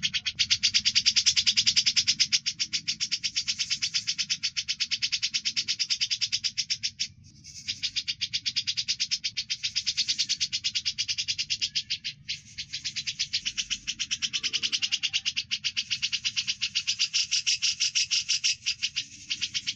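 Grey-cheeked bulbul (cucak jenggot) and Eurasian tree sparrow (burung gereja) calls layered together in a continuous rapid chatter of quick repeated chirps, broken only briefly about seven and twelve seconds in. This is a looped birdsong 'masteran' recording used to teach other songbirds.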